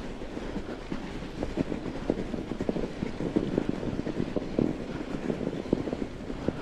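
Mountain bike ridden over a snowy trail: tyres rolling and crunching with the frame rattling, a dense, irregular run of low knocks and clatter.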